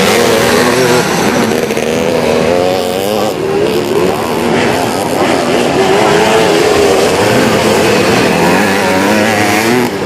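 Several vintage twin-shock motocross motorcycles racing, their engines revving up and down as they accelerate and shift, with more than one bike heard at once.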